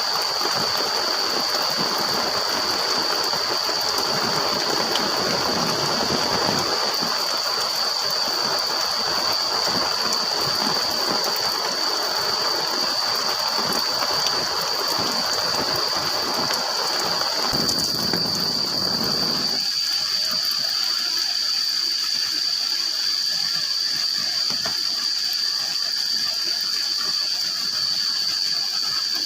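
Rain pattering on a plastic tarp shelter, with a steady high-pitched drone over it. The rain noise drops away about two-thirds of the way through, leaving the drone.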